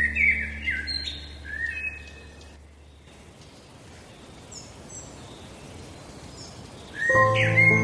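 Birds chirping over a fading sustained drone, then a quieter stretch of scattered high chirps. Near the end, music with clear pitched notes comes in.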